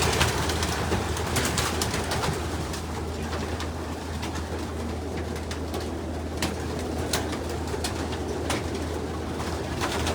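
A loft full of racing pigeons cooing, with scattered sharp wing claps and flutters from birds flushing, busiest and loudest in the first second, over a steady low hum.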